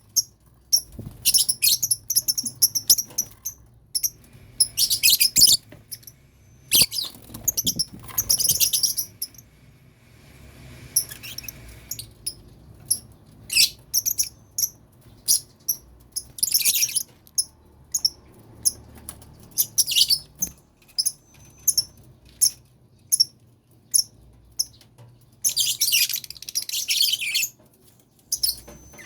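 Lovebirds in a colony cage chirping and chattering: a string of short, shrill chirps, with denser bursts of chatter several times, the longest near the end.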